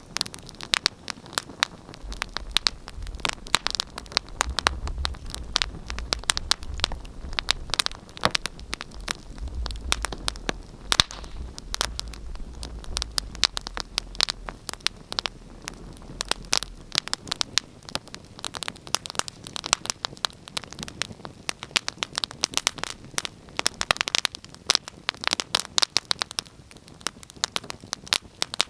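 A fire in a fireplace crackling, with dense, irregular pops and snaps throughout. A low rumble sits underneath from about two seconds in until a little past the middle.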